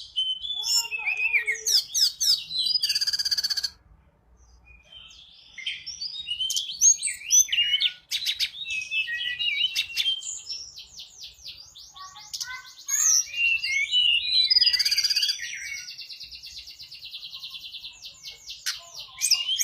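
Tledekan gunung singing as a lure call: rapid chattering phrases of high whistled notes and sweeps, broken by several fast buzzy trills.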